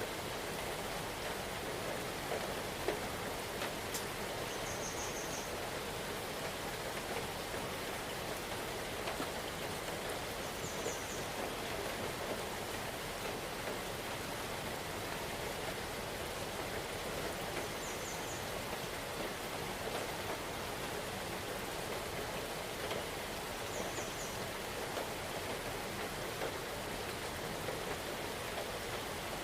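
Steady rain falling in a forest, an even patter. A short high trill sounds four times, about six seconds apart.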